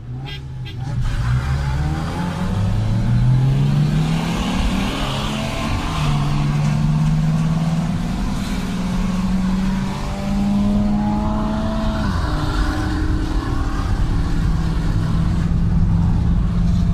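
Mercedes-Benz C-Class 1.8 four-cylinder engine launching hard about a second in, heard from inside its cabin, its note climbing in pitch and dropping back at each upshift through several gears.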